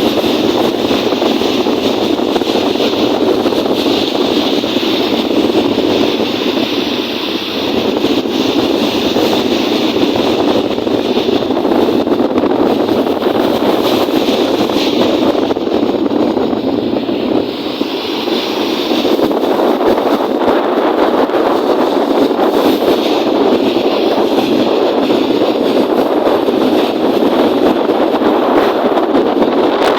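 Strong wind on the microphone over choppy lake waves, a loud, steady rushing noise that dips briefly twice.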